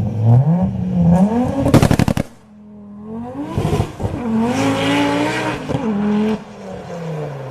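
Turbocharged Audi S2 inline-five engine revved twice from idle. The first rev ends in a rapid burst of sharp crackles and cuts off suddenly; the second climbs again, holds for about two seconds, then falls back to idle.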